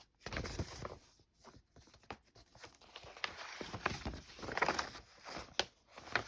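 Paper doll book pages and cut-out paper dolls being handled: irregular rustling of paper with light taps and clicks.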